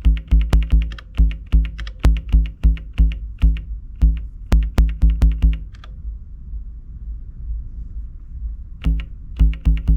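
Elektron Digitakt sequencer playing an improvised electronic bass line: short plucky low notes with sharp clicky attacks in a quick, uneven rhythm. About six seconds in the notes stop, leaving a low held bass tone, and the line starts again near the end.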